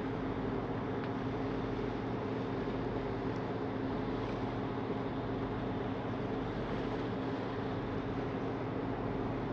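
Passenger ferry's engines running steadily underway: an unchanging drone with several low held tones over an even rushing noise.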